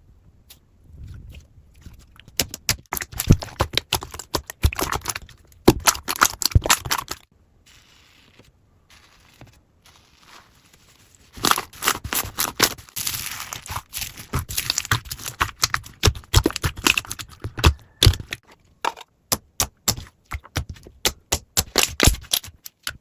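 Slime being squeezed and pressed by hand, giving dense runs of sticky clicks and crackles. It pauses for a few seconds about a third of the way in, then starts again.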